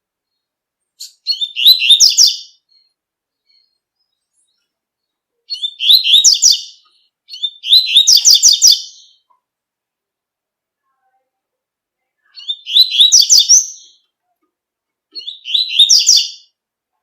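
Double-collared seedeater (coleiro) singing its tui-tui song: five short phrases of quick, high, repeated notes, each about a second long, separated by pauses of a few seconds.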